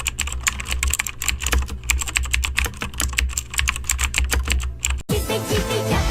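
Fast typing on a computer keyboard: a rapid clatter of key clicks over a low hum. It cuts off about five seconds in, when pop music starts.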